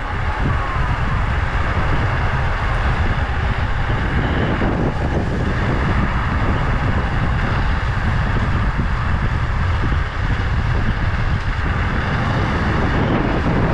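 Wind rushing over the microphone during a ride at speed, with a steady vehicle running noise underneath and a short dip about ten seconds in.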